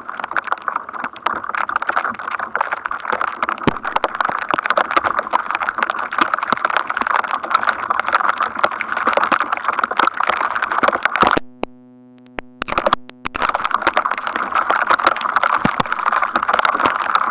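Dense, irregular crackling static from atmospheric electricity building ahead of a thunderstorm. About two-thirds of the way in the crackle cuts out for roughly two seconds, leaving a steady low tone, then comes back.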